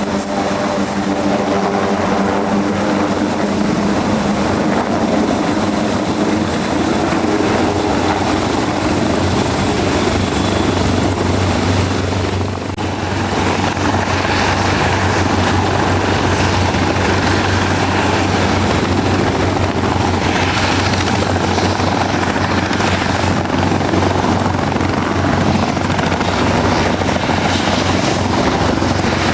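A helicopter running close by, with steady rotor and engine noise and a high whine. About twelve seconds in, the sound briefly dips and shifts: the whine fades and a low steady hum comes to the fore.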